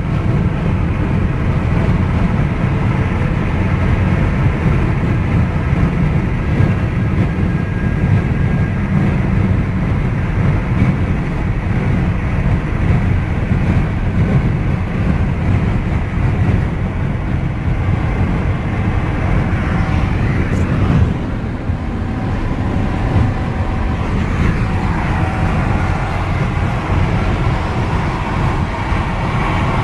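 Steady highway road noise from a car travelling at speed: a continuous low rumble of engine and tyres, with a faint rising and falling tone about two-thirds of the way through.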